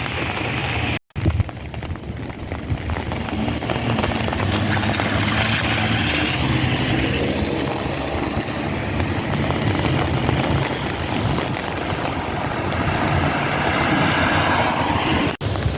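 Steady rush of breeze on the microphone over light rain falling. The sound drops out briefly about a second in and again near the end.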